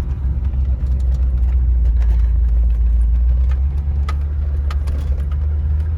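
Steady low rumble of a vehicle engine and road noise while driving slowly, with a few faint clicks and knocks.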